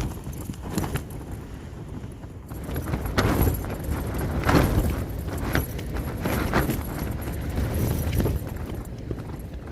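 Strong wind gusting against a Hilleberg Soulo tent, its fabric flapping and snapping in irregular cracks over a low rumble. A heavy gust builds about two and a half seconds in and eases near the end.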